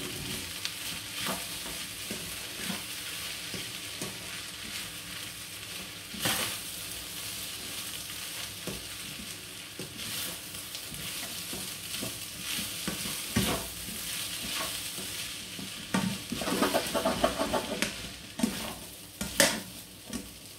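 Egg fried rice sizzling in a hot frying pan while a spatula stirs and breaks it up, scraping through the rice, with a few sharp clacks of the spatula against the pan.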